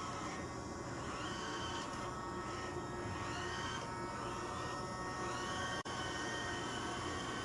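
Robot vacuum cleaner running, a steady motor and brush hum with a whine that rises and falls in pitch now and then.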